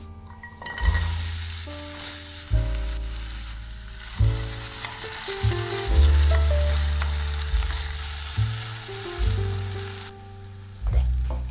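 Thin potato strips sizzling in hot oil in a frying pan and stirred with a wooden spatula. The sizzling starts about a second in and drops away near the end.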